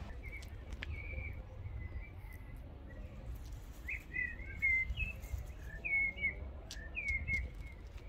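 Small songbirds chirping in short, high calls, more often in the second half, over a low steady rumble.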